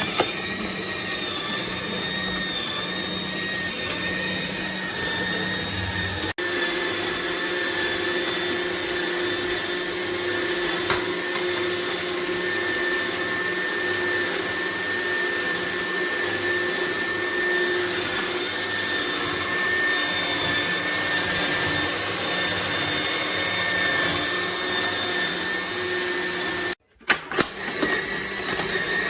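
Electric motor of an AMZCHEF cold-press juicer running steadily with a whine and a pulsing hum. The sound changes abruptly about six seconds in and briefly cuts out near the end.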